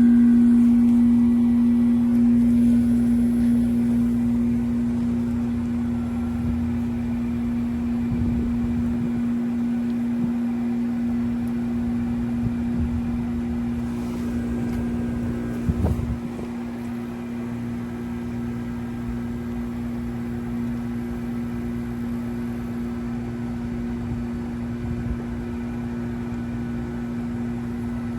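Trane XR13 heat pump outdoor unit running through a defrost cycle, giving a loud, steady hum. There is a short burst of knocks about 16 seconds in.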